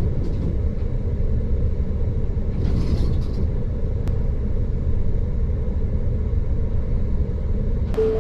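Steady, muffled low rumble of a vehicle on the move, with little high-pitched sound in it.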